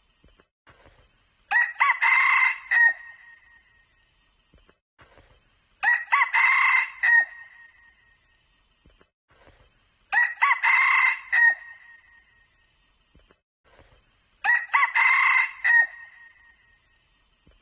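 Junglefowl rooster crowing, clear and ringing: four crows at even gaps of about four seconds, each about a second and a half long.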